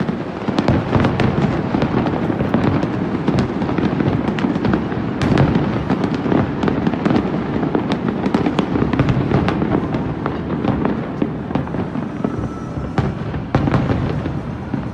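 Fireworks display: a dense, continuous run of bangs and crackles over a steady rumble, with a sharp loud crack about five seconds in.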